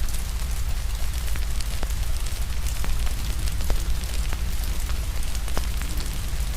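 Steady rain mixed with a crackling fire: an even hiss of rain over a deep, steady rumble, with frequent small crackles and a few sharper pops.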